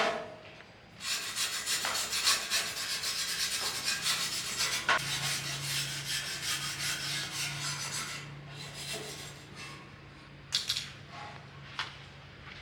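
Fast, repeated scraping of a hand tool worked hard over a surface, like filing or wire-brushing, from about a second in to about eight seconds. A short burst of scraping comes near the end, over a faint low hum.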